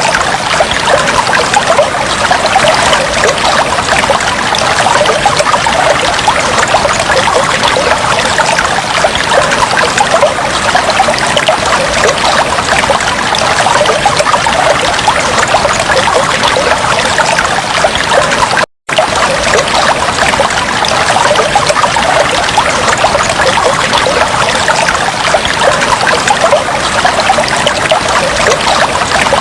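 Aquarium water trickling and splashing steadily, with a dense patter of small splashes and bubbles. The sound cuts out completely for a split second about two-thirds of the way through, then resumes unchanged.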